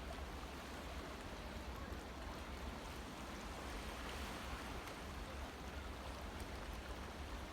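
Steady wind noise on the microphone: a low rumble under an even hiss.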